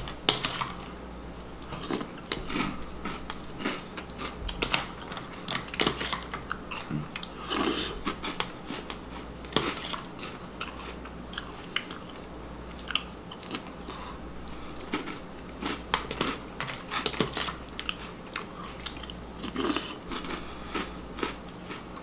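A person crunching and chewing mouthfuls of Reese's Puffs cereal in milk, a long run of short crisp crunches one after another.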